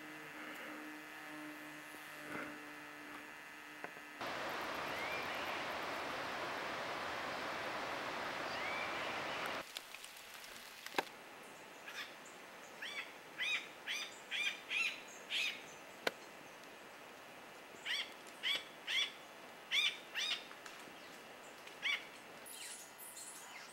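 A bird calling a run of short, sharp notes, about two a second, in two bouts of about six calls each, after a few seconds of steady rushing noise.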